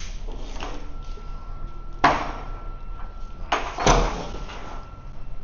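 Loud clattering knocks from cargo straps with metal buckles being handled and dropped: one about two seconds in, then two close together near four seconds, the second the loudest. A faint steady high tone sounds underneath.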